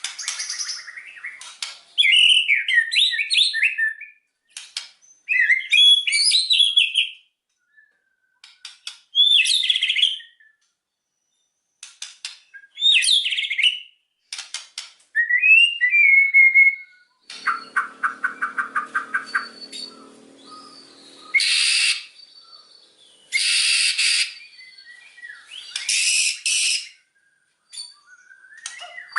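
White-rumped shama (murai batu) singing in separate bursts of varied whistled phrases and rapid clicking trills, its song filled with mimicked calls of other birds.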